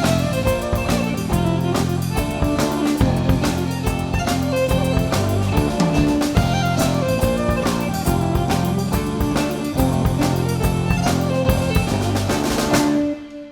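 Celtic folk-rock band playing an Irish jig on fiddle, guitar, bass and drum kit, with a steady drum beat. Near the end the band stops together and a held note rings on briefly as it fades.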